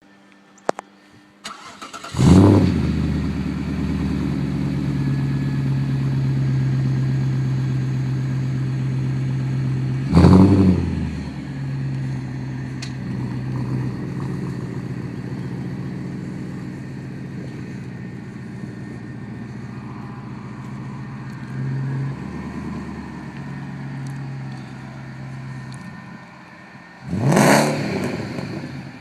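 Audi S8 (D2) 4.2-litre V8 through a Magnaflow exhaust with deleted resonators, starting up about two seconds in and then idling with a deep, steady note that slowly settles quieter. It is revved sharply twice, near the middle and near the end, with a lighter blip in between.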